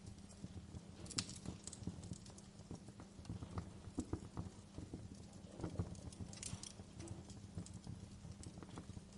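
Wood fire crackling, with irregular small pops and snaps over a steady low hum. A few sharper pops come about a second in and again near six seconds.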